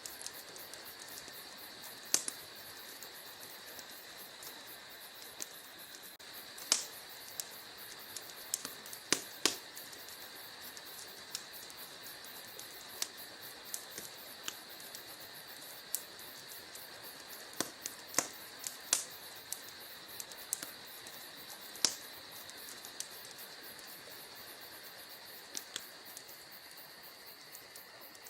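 Wood fire crackling in a fireplace: a steady soft hiss with irregular sharp pops and snaps, a few of them much louder than the rest.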